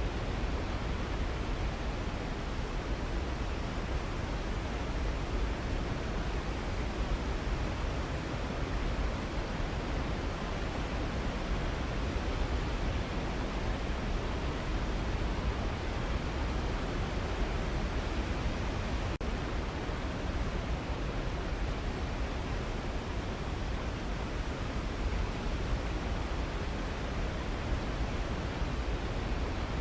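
Waterfall rushing: a steady, even roar of falling water that doesn't change, with a momentary dip about two-thirds of the way through.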